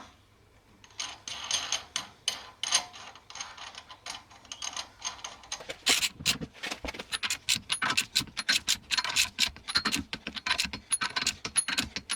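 Small steel parts clinking and clicking against a wheel hub as a bolt-on hub-centric wheel spacer is fitted and its bolts started by hand. The clicks are sparse at first and come thick and fast from about halfway through.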